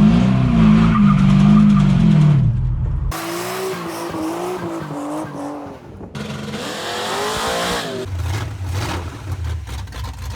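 Chevy C10 pickup's swapped-in 5.3 L V8 revving hard through a tire-squealing burnout, its pitch rising and falling. The sound changes abruptly about three, six and eight seconds in.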